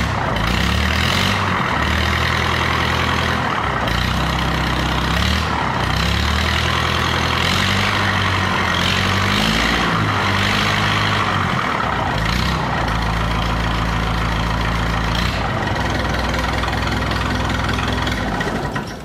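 Massey Ferguson tractor engine running through a freshly fitted straight-pipe exhaust, revved up and down several times, then held at a steady speed before dying down near the end.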